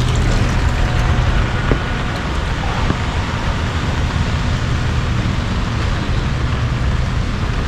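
Heavy rain pouring steadily, over a low continuous rumble of road traffic.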